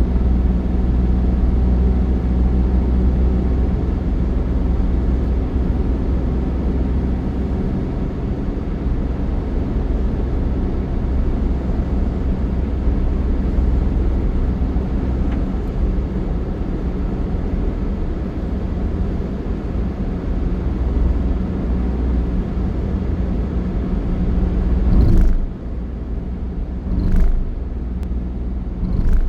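Steady low rumble of a moving road vehicle, with a constant engine hum. Near the end come a few short, loud bumps.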